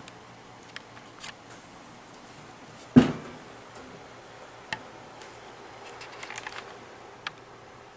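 Light handling noises: scattered small taps and clicks, with one loud knock about three seconds in and a short patter of light rattles near the end.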